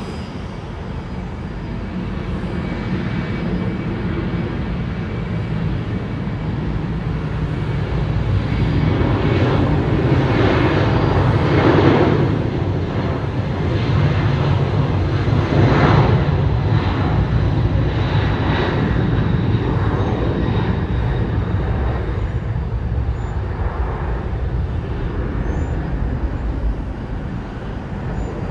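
Airliner's jet engines passing by, the noise swelling to a peak about halfway through and then slowly fading.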